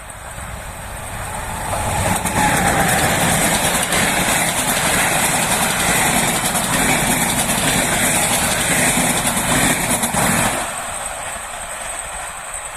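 A train passing close by on the track. Its noise builds over the first two seconds, stays loud for about eight seconds, then drops off sharply near the end as it goes past, leaving a fading tail.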